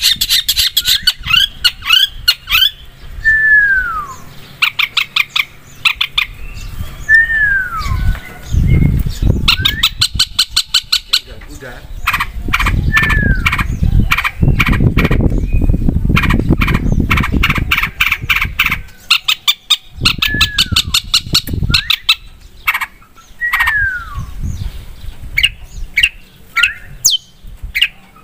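Long-tailed shrike (cendet) singing a loud, varied song: fast harsh rattling chatters, downward-sliding whistles repeated every few seconds, and sharp rising notes. A low rumbling noise runs underneath for about ten seconds in the middle.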